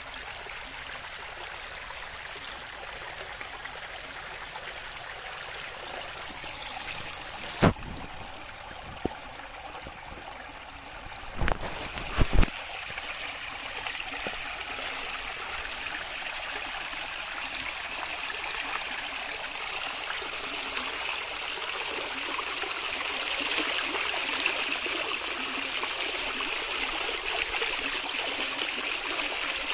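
Running water, like a small stream or trickle, flowing steadily and growing slowly louder. A few sharp clicks or knocks cut through it, one at about eight seconds and a close pair at about twelve.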